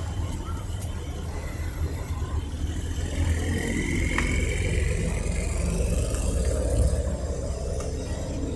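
Rally car engine running at low revs with a deep, steady rumble that swells a little louder in the middle, with a faint rising whine over it.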